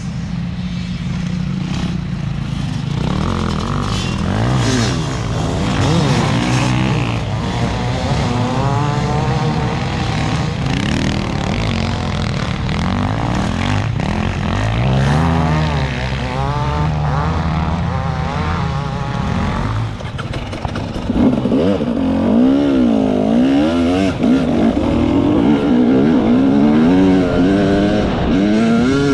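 Enduro motorcycle engine being ridden off-road, revving up and down again and again as the throttle opens and closes. It gets louder about two-thirds of the way through.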